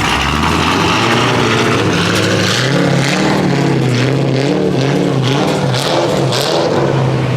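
Car engine revving: it climbs from a low idle about a second in, then rises and falls over and over as the throttle is blipped.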